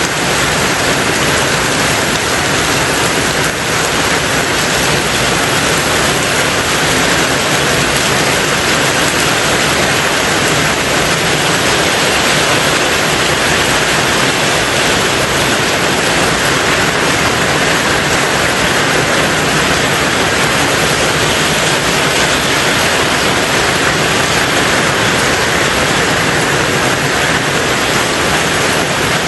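Steady heavy rain drumming on a tin roof, a dense even hiss with no breaks or changes in strength.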